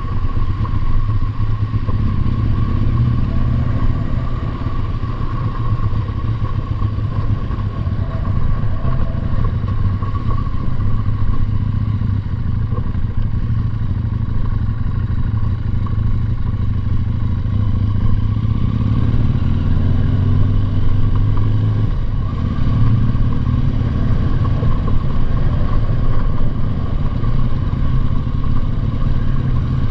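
Motorcycle engine running steadily under way, with a steady rumble and a thin whine above it.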